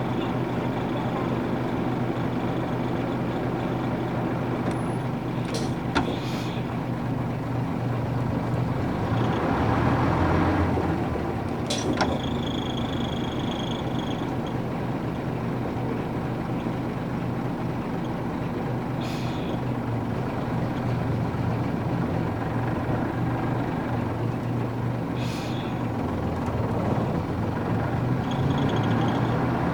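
Running sound from aboard a Nissan Diesel UA440 city bus with a PF6 diesel engine and a five-speed overdrive gearbox: a steady engine drone that swells for a couple of seconds about ten seconds in. Several brief hisses of air come at roughly six-second intervals.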